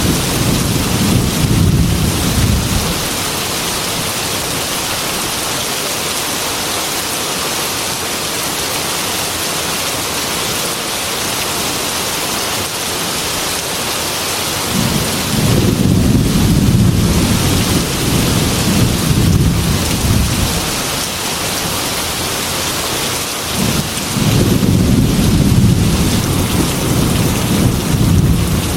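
Heavy rain on a glass window, a steady hiss, with three long, low rolls of thunder: one fading out in the first few seconds, one about halfway through, and another near the end.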